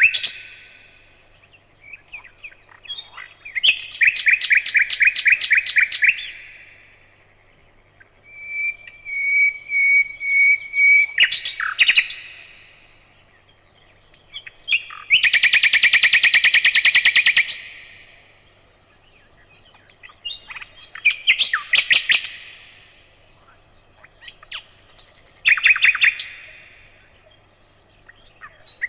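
Nightingale singing: about five loud phrases of rapid repeated notes and trills, one of them a slow series of whistles that swells in loudness, with pauses of two to three seconds between phrases.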